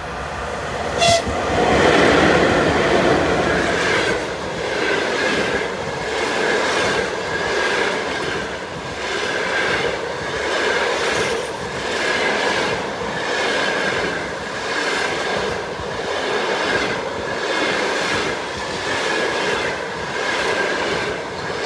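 A passenger train hauled by a ChS7 electric locomotive passing close by. There is a sharp click about a second in, and the loudest moment comes just after as the locomotive goes past. Then the coaches roll by with a clickety-clack that swells about every two seconds as each coach's wheels cross the rail joints, with a high ringing wheel squeal running through it.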